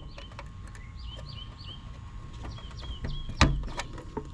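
A bird chirping in two short runs of repeated quick notes over a faint steady low hum, with one sharp click about three and a half seconds in.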